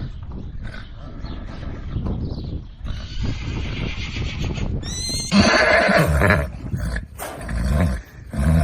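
Horse neighing: a long whinny about five seconds in that opens with a rising squeal, then another loud call near the end.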